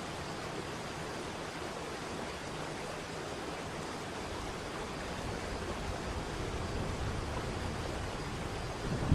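Waterfall: a steady rush of falling water, growing slightly louder and deeper in the second half.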